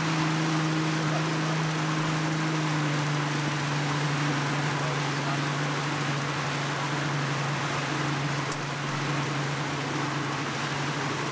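Boat motor running at a steady cruising speed, a constant low hum, with wind and water rushing past.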